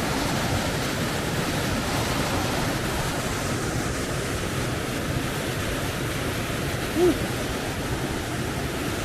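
Waterfall rushing steadily, a dense even roar of falling water, with one short higher-pitched sound about seven seconds in.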